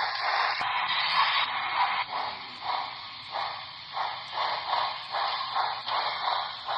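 Onboard sound decoder of an HO scale Great Northern S-2 4-8-4 model steam locomotive playing steam chuffs over a steady hiss, through the model's small speaker. The chuffs come in an even rhythm, about three a second, synchronized to the turning drive wheels.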